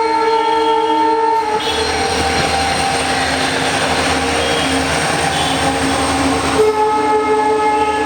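Diesel locomotive's horn sounding as the express approaches: one blast of about a second and a half, then the rumble of the train with fainter tones, then a second long blast near the end.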